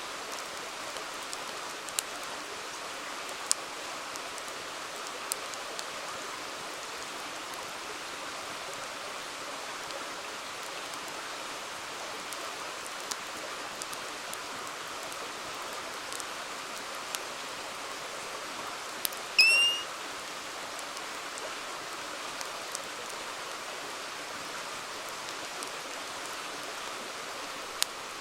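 River water flowing steadily, with a wood campfire crackling in sharp, scattered pops. About two-thirds of the way through comes one short, high chirp, the loudest sound.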